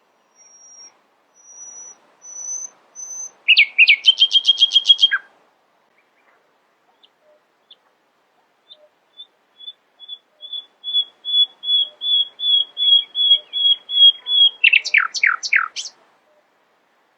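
Nightingale singing. A few thin, high whistles give way to a fast run of repeated notes. A long series of repeated whistled notes then grows steadily louder and ends in a few quick down-slurred notes.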